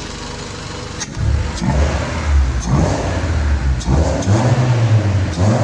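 Freshly fitted Honda D16W four-cylinder engine, just started, being revved: it runs steadily for about a second, then is blipped up and down several times.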